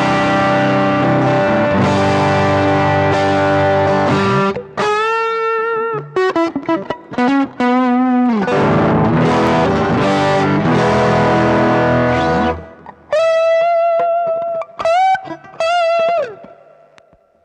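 Electric guitar played through a Behringer GDI21 amp-emulation pedal and Cuvave ODrive Blues overdrive, with a lightly driven amp-like tone. Sustained chords alternate twice with single-note lead phrases that have string bends and vibrato, and the last notes ring out and fade near the end.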